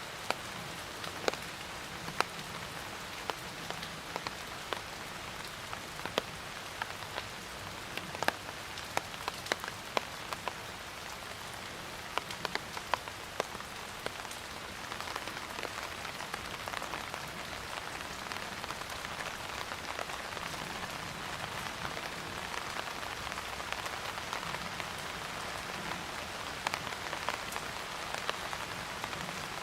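Steady rain falling on a surface, with individual drops landing as sharp ticks over an even hiss. About halfway through, the rain grows heavier and more uniform and the separate drop ticks become fewer.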